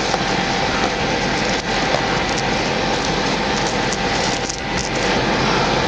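A steady rushing noise with a low rumble underneath and a faint steady hum.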